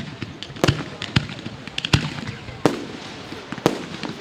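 Fireworks display: sharp bangs of bursting fireworks at irregular intervals, roughly two a second, some with crackling.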